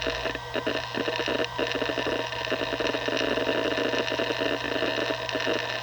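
Western Digital Caviar WD1600 SATA hard drive busy seeking: a rapid, irregular chatter of head clicks over the steady hum and whine of the spinning platters.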